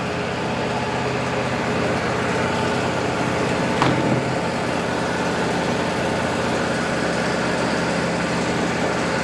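Wood-Mizer LT40 band sawmill's engine running steadily, with a single short, sharp knock about four seconds in.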